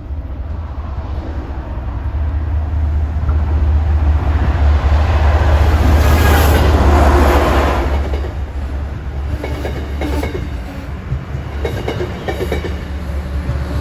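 MBTA commuter train led by an MPI HSP46 diesel-electric locomotive passing close along the platform. The locomotive's engine drone and rushing noise swell to their loudest as it goes by, about six to eight seconds in. Then the bilevel coaches follow with their wheels clicking over the rail joints.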